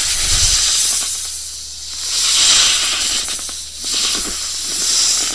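Cobra hissing: a string of long, breathy hisses that swell and fade about four times.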